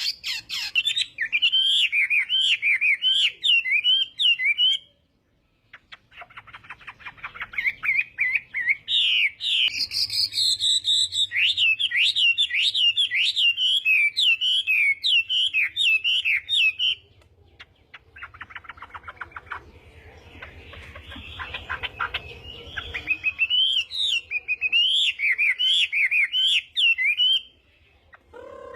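Chinese hwamei (họa mi) singing: loud, rapid warbling phrases in three long bouts, broken by short pauses.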